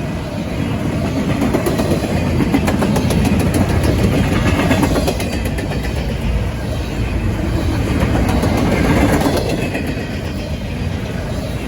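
A train rolling past with a steady heavy rumble and its wheels clicking rapidly over the rail joints, the clicking strongest a few seconds in.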